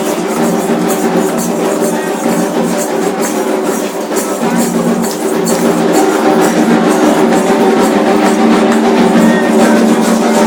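Percussion music: drums and sharp, rapidly repeated knocks over sustained steady tones, growing a little louder about halfway through.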